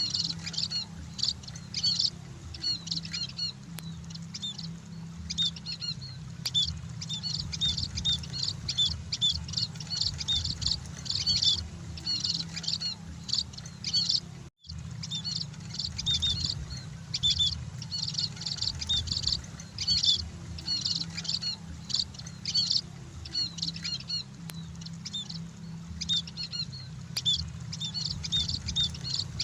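A group of munias (emprit) chirping, with many short high chirps in quick overlapping succession over a steady low hum. The sound cuts out briefly about halfway through.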